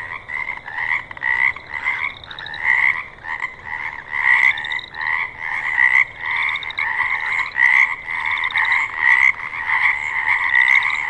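A dense chorus of overlapping animal calls, each one a rapid pulsing call lasting under a second, repeating without a break.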